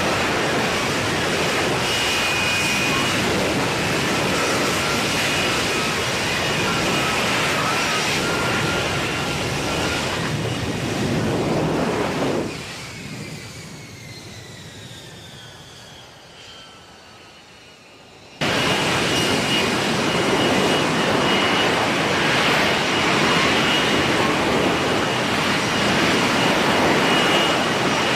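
F-35B Lightning II's F135 jet engine running loud, a noisy roar with a steady high whine over it. About twelve seconds in the noise drops away with a falling whine, then the loud jet roar cuts back in suddenly about six seconds later.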